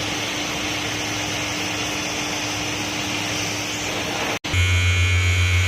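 Steady mechanical whirring noise with a faint steady tone, cut off abruptly about four and a half seconds in and replaced by a loud, steady electric buzz.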